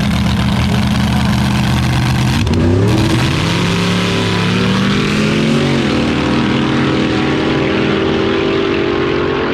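Front-engine dragster's engine, loud and held at steady revs, then launching with a sharp rise in pitch about two and a half seconds in. Near six seconds the pitch dips and then holds steady at a higher level.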